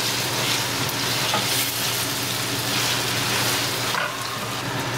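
Peas, sweet corn, onion and tomato sizzling steadily in hot olive oil in a stainless steel pot, with the scrape and shuffle of a spatula stirring them.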